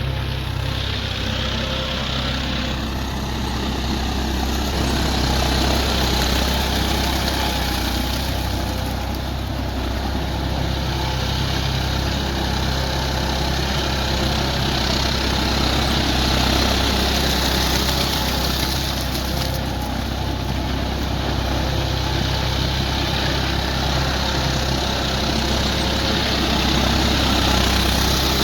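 Swaraj 744 XT tractor's three-cylinder diesel engine running steadily as it drives a rotavator through wet paddy mud.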